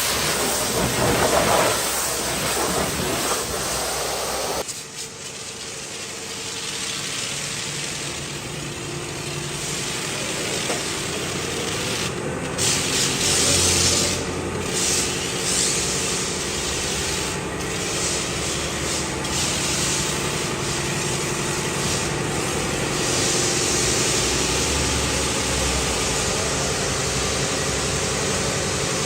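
Pressure washer spraying water or foam onto a car: a steady hiss with a low, steady machine hum under it. The spray drops off sharply about five seconds in, then builds back up.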